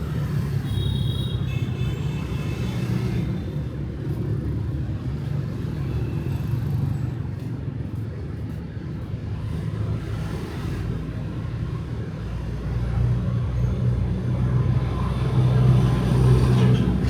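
City street traffic of cars and motorbikes: a steady low engine and tyre rumble that swells near the end as a vehicle passes close. A brief high-pitched tone sounds in the first few seconds.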